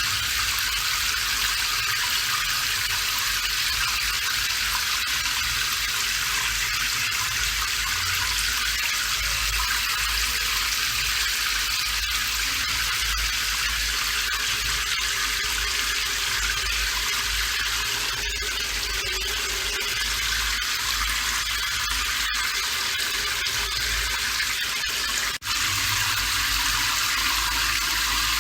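Steady rain falling, a dense even hiss of water with a low rumble beneath it, broken by a momentary drop in level about 25 seconds in.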